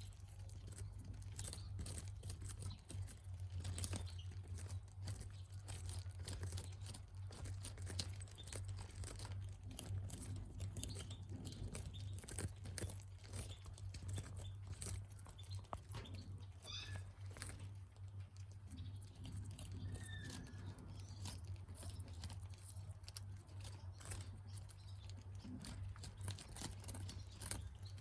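Budgerigars pecking and crunching at food: many small irregular clicks and crunches, with a couple of faint short chirps, over a steady low hum.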